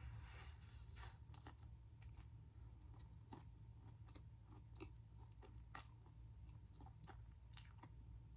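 Faint, close-miked chewing of a battered Korean corn dog, with irregular small crisp crunches from the fried coating.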